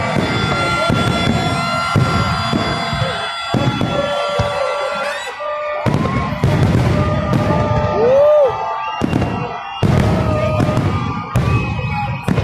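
A fireworks display: shells bursting again and again with sharp bangs and crackle, over steady horn-like tones and the noise of a crowd.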